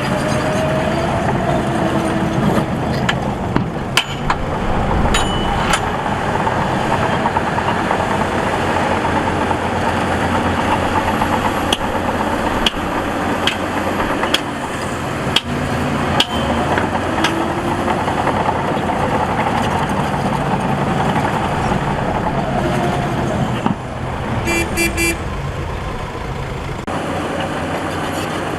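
Diesel engines of heavy earthmoving machinery running steadily under load, with occasional sharp metallic clanks and a brief horn-like tone near the end.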